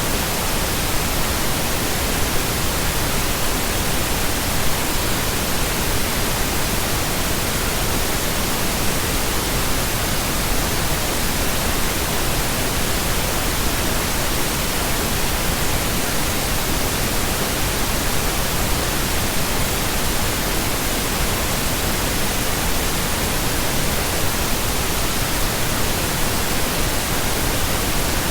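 Steady, continuous pink noise: an even hiss spread across the whole range, unchanging throughout.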